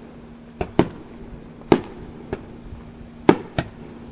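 Aerial fireworks shells bursting: six sharp bangs at uneven intervals, some in quick pairs, each with a short trailing echo.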